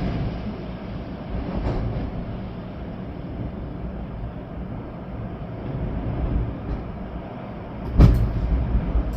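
Storm wind and rain: gusts rumble and buffet against the microphone over a steady hiss, with a sudden loud blast about eight seconds in.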